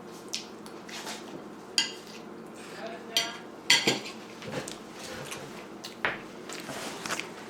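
Spoon and knife clinking and scraping against a plate while eating, in a scattering of separate clinks about a second apart, the loudest a little under four seconds in.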